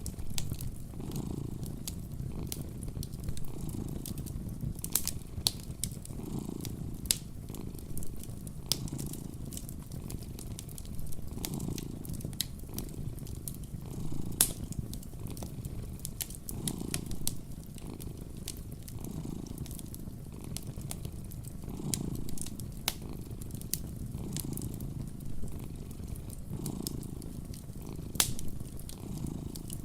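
Domestic cat purring steadily, the purr swelling and easing with each breath about every two seconds. Sharp pops and crackles of a wood fire are scattered over it.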